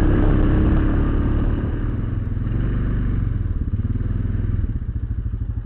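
ATV engine running. It eases off about a second and a half in, then drops near the end to a slow, even chugging of about eight beats a second, close to idle. It is heard through a bullet camera's foam-padded sound cap, which dulls the sound.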